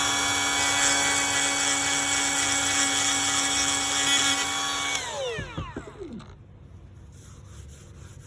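Battery-powered Dremel rotary tool with a ball-nose carbide bit running at full speed with a steady high whine, grinding out delaminated fiberglass. About five seconds in it is switched off and the whine falls in pitch as it spins down.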